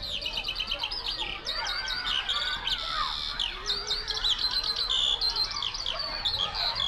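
Several small songbirds chirping and twittering together: many quick, high, overlapping chirps and short trills.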